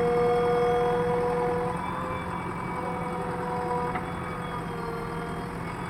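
Heavy diesel machinery running with a steady high whine. The whine dips slightly in loudness and pitch about two seconds in, then shifts again a little near the end.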